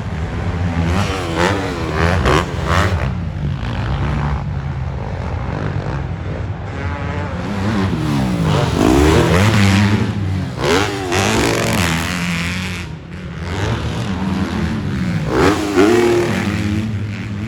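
Several motocross bikes' engines revving hard at once, their pitch climbing and dropping again and again as they race.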